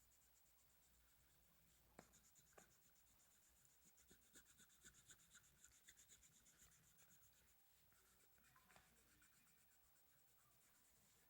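Faint scratching of a felt-tip marker colouring on paper in quick back-and-forth strokes, with a light click about two seconds in.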